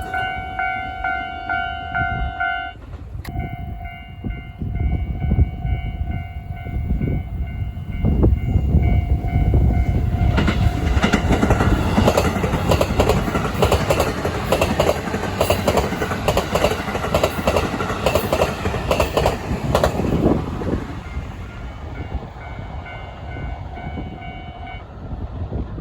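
Japanese level-crossing warning bell ringing with a steady, repeating electronic clang while a Haruka limited express electric train approaches. The train passes loudly over the crossing from about eight to twenty seconds in, its wheels clacking rhythmically over the rail joints. Once it is past, the bell is heard again and cuts off shortly before the end.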